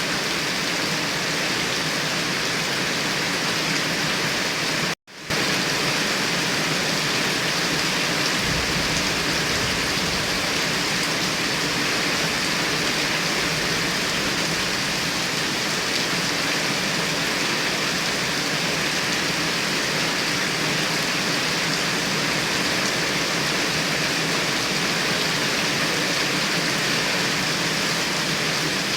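Heavy rain pouring down steadily in a dense, even hiss, briefly cutting out for a split second about five seconds in.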